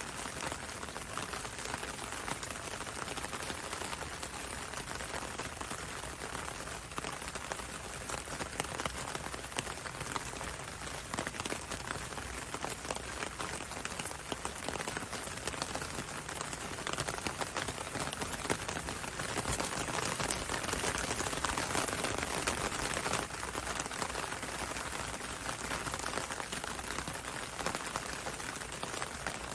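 Gentle rain falling steadily, a dense patter of many small drops.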